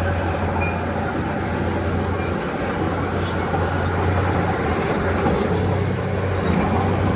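Diesel engine of heavy earthmoving machinery running steadily under work, a constant low hum over a broad rumble that dips slightly about two and a half seconds in.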